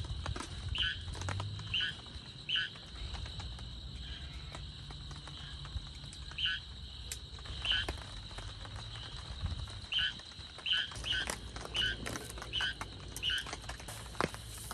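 Repeated short chirping calls from a small animal, about a dozen at uneven intervals of half a second to a second, over a steady high-pitched insect drone in the forest.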